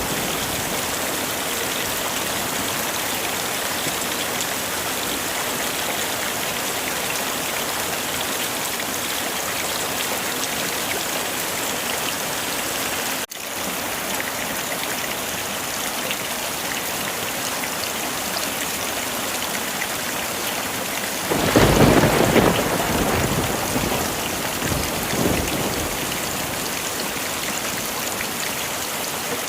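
Heavy rain falling steadily, with a roll of thunder a little over two-thirds of the way through and a smaller rumble a few seconds later. The sound drops out for an instant just under halfway.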